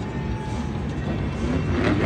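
Monster truck engine running, heard through the arena over a dense low rumble, with music from the stadium speakers; it grows louder near the end.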